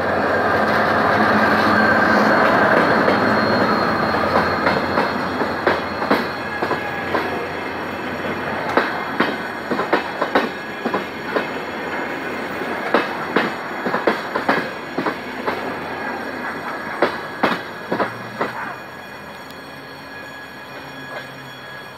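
GM GT22CW diesel-electric locomotive passing close by as it pulls a passenger train away, its two-stroke diesel engine working. Then the passenger coaches roll past, the wheels clacking in groups over the rail joints, and the rumble fades as the train moves away.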